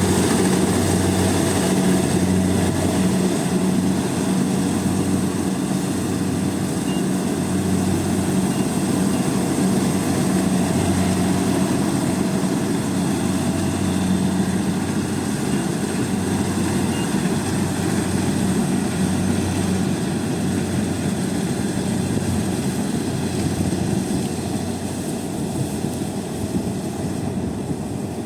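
Rice combine harvester running steadily under load: a low engine hum with the clatter and noise of the cutting and threshing machinery over it, easing a little near the end.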